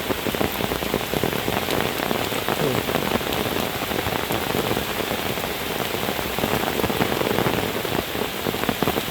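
Heavy rain pouring down steadily, a dense hiss of countless drops.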